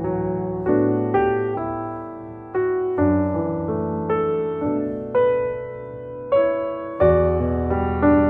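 Background music: slow, gentle piano or electric piano playing soft chords and a simple melody, each note struck and left to fade.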